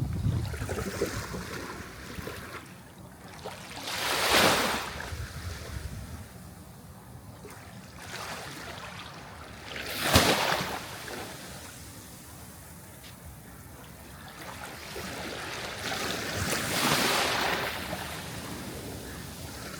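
Sea waves breaking, three times in about twenty seconds: each swell rises to a crash with a hiss of surf and then ebbs. The one about ten seconds in is the sharpest and loudest.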